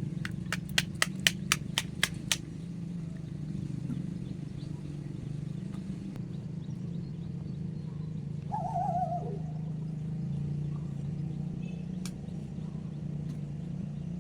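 A steady low hum throughout. A quick run of about eight sharp clicks in the first two seconds or so. A single short wavering animal call about halfway through.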